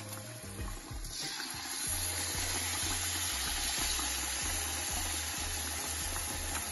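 Battered banana fritters deep-frying in hot oil in a wok, a steady sizzle that grows louder about a second in.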